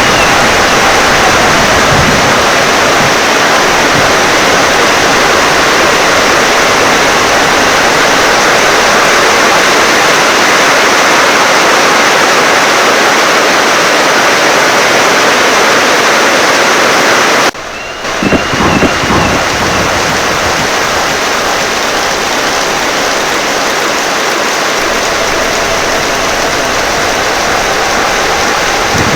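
Heavy rain pouring steadily in a dense, loud hiss. About two-thirds of the way through it breaks off for an instant, then carries on a little quieter with a brief low rumble.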